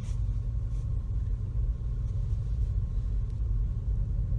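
Steady low rumble inside a car's cabin: the engine running and the car barely moving in slow traffic.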